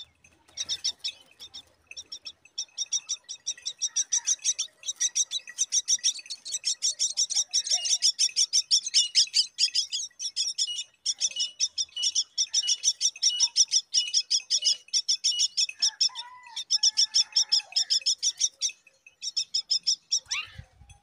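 Myna nestlings chirping rapidly and continuously, about four to five high-pitched chirps a second, in long bouts with a couple of brief pauses.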